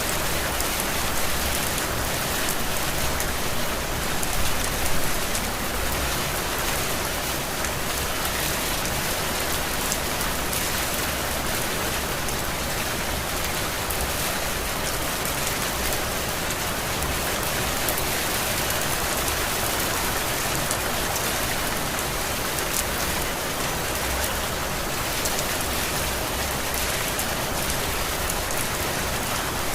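Heavy rain falling steadily: a dense, even hiss of drops striking surfaces, swelling briefly about four to five seconds in.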